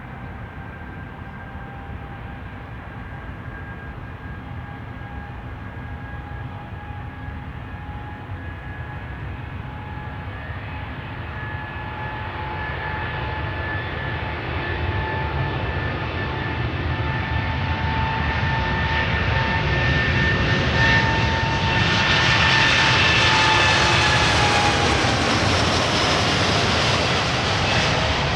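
Jet airliner passing close by: engine rumble and a steady whine grow louder for about twenty seconds, peak, then the whine drops in pitch as the aircraft goes past.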